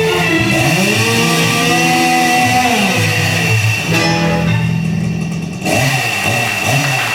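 Chainsaw revved again and again, each rev climbing in pitch, holding at full speed, then dropping back, over loud music.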